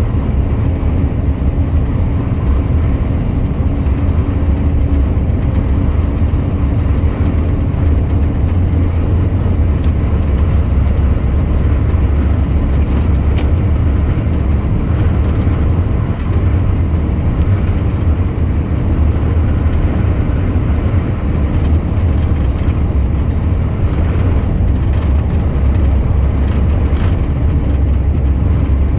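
Truck driving along the road, its engine and tyre noise making a steady low drone. A hum on top of it fades out about a third of the way through.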